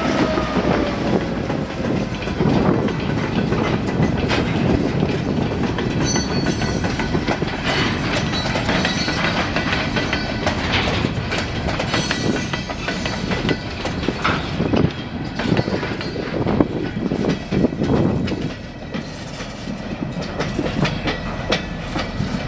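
Freight train passing close by: the Canadian Pacific locomotive's engine note drops in pitch as it goes past, then covered hopper cars roll by with wheels clattering and clicking over the rail joints and crossing, with brief high-pitched wheel squeals twice.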